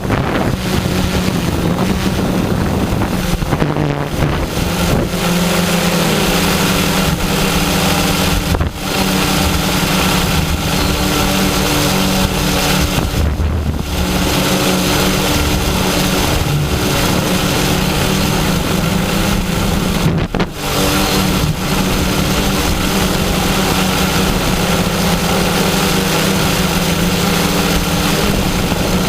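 Multirotor drone's motors and propellers buzzing steadily in flight, the pitch wavering slightly, with strong wind buffeting the microphone. The sound dips briefly three times, about 9, 13 and 20 seconds in.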